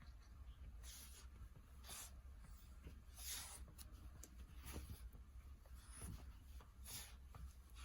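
Paper rustling and scratching in short bursts, about one a second, as a puppy pulls and tears at it.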